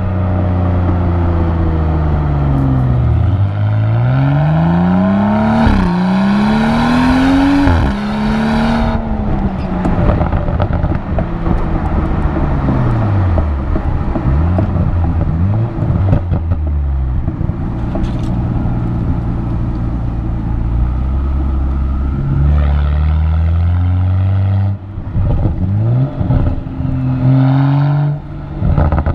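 2017 BMW X4 M40i's turbocharged 3.0-litre inline-six engine and exhaust being driven hard. The pitch climbs, then drops sharply at gear changes about six and eight seconds in; later it falls away, runs steady, and rises again.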